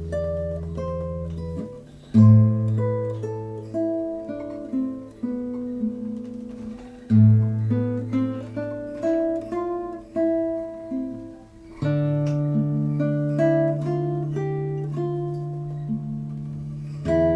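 Solo acoustic guitar improvisation: single plucked melody notes over low bass notes that change about every five seconds.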